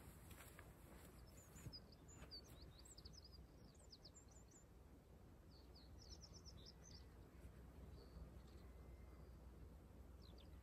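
Near silence outdoors: faint high bird chirps come in two quick spells, one about a second and a half in and another around six seconds, over a low steady background rumble.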